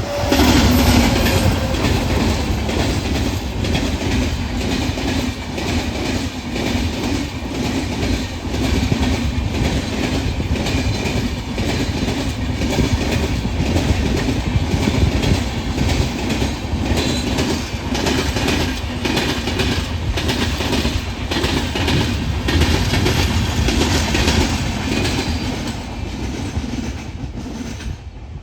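A train passing close by at speed for nearly half a minute: a steady rumble with the rapid clatter of wheels over rail joints. It starts abruptly and eases off near the end.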